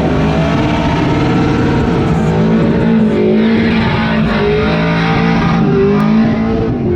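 LS V8 engine of a Chevrolet C10 buggy held at high revs in a burnout, with the spinning tyres hissing over the steady engine note.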